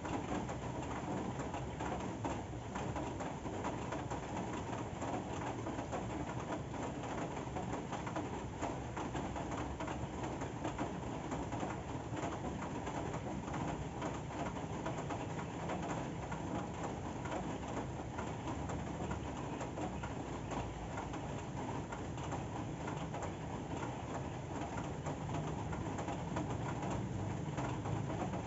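Steady rain falling, a dense, even patter of drops that holds unchanged throughout.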